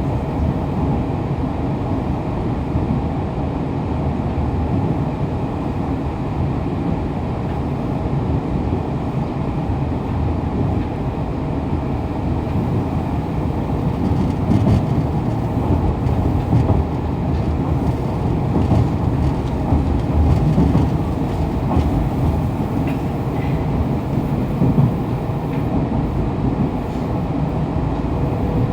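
Fukuoka City Subway 2000 series train running between stations, heard from the car floor: a steady rumble of wheels and running gear on the rails, growing a little louder about halfway through.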